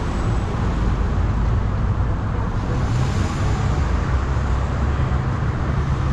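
Steady, loud low engine rumble of street traffic and vehicles outdoors.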